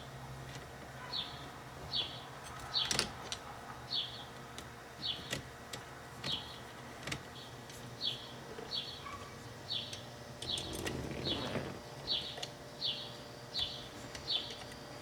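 A bird chirping over and over, one short falling chirp about every 0.7 s, with a few light clicks and a brief rustling sound around eleven seconds in.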